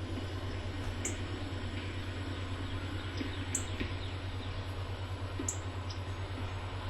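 Short, high, falling bird chirps repeated about every two seconds over a steady hiss of rain and a constant low hum.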